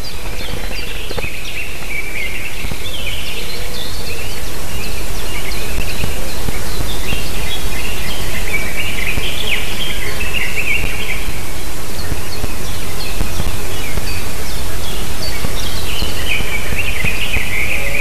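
Bird calls: quick high-pitched chirps and chattering in bouts of a few seconds, over a steady low rumble.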